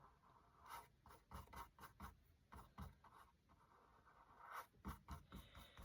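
Faint brushing of acrylic paint onto canvas with a paintbrush: a run of short, irregular strokes.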